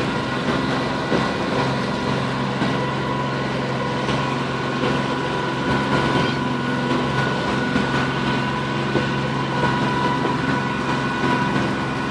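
Boat engine running steadily under way, a constant hum with a few steady whining tones over it.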